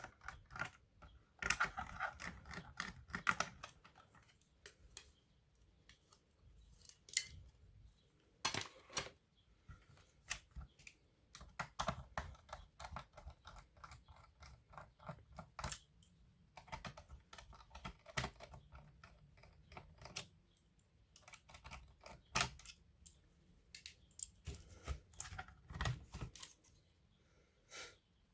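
Asus A42F laptop being taken apart by hand: irregular clicks and taps of its plastic case and small parts, with a dense run of quick clicks a couple of seconds in.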